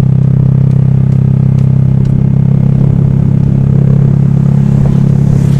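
Honda Vario scooter's single-cylinder engine running at a steady speed under way, an even engine note with no revving.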